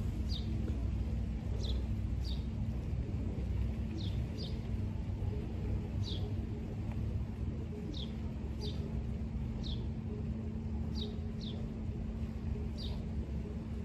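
A small bird calling over and over with short, high, downward-sweeping chirps, often in quick pairs about every one to two seconds, over a steady low rumble and a constant low hum.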